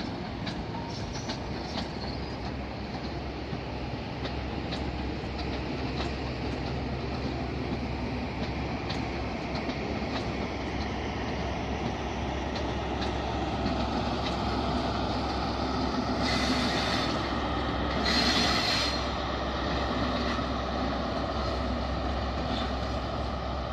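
Diesel train running at low speed, a steady engine hum growing gradually louder, with scattered clicks of wheels over rail joints and some wheel squeal. Two short hissing bursts come near the end, the second the loudest.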